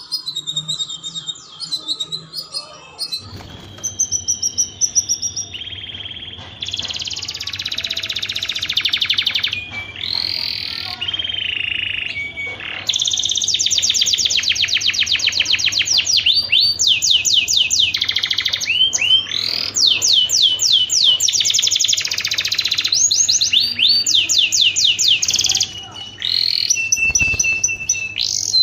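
Domestic canary singing: long phrases of very fast repeated notes and rolling trills, one run after another with brief breaks between them, over a faint low hum.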